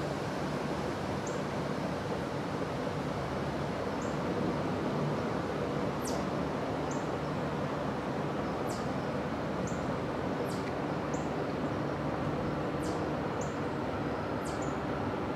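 Steady background hiss with small birds calling now and then: thin, high-pitched notes, some sliding quickly downward and some short chirps, about one every second or so.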